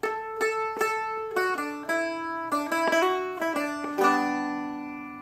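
Seagull Merlin M4, a four-string dulcimer-style instrument, flatpicked: a run of single melody notes, then about four seconds in a full strummed chord that rings out and fades.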